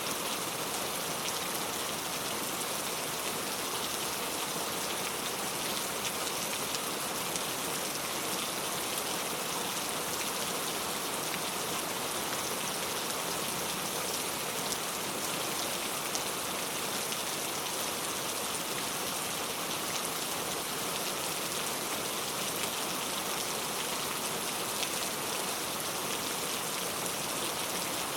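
Heavy rain falling steadily: a dense, even hiss of drops on a surface.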